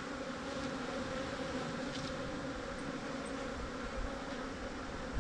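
Steady buzzing hum of a large honeybee colony, its hive opened up and the bees stirred up; this is a notably aggressive colony.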